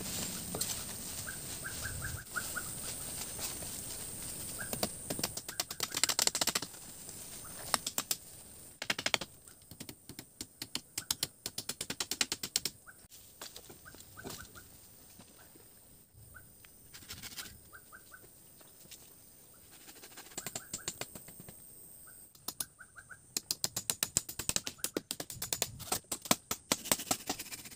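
Forest ambience: a steady high insect drone, with a bird giving short runs of quick high notes several times. Irregular clusters of sharp clicks and crackles come and go throughout, loudest around six seconds in and near the end.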